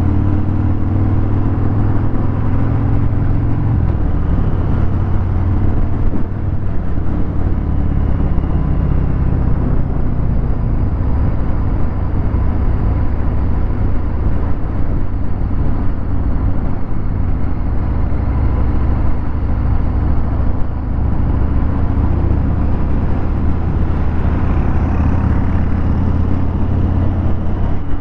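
Harley-Davidson Fat Bob 114's Milwaukee-Eight 114 V-twin running through a Vance & Hines Hi-Output 2-into-1 exhaust, a steady low, loud rumble.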